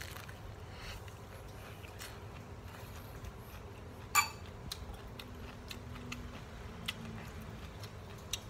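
Chewing a crispy battered anchovy fritter wrapped in leafy greens, with small crunching clicks scattered through and one sharp click about four seconds in.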